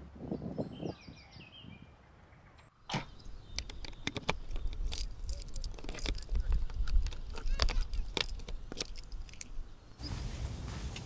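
Irregular clinking and rattling of small hard objects being handled, many sharp clicks over a low rumble.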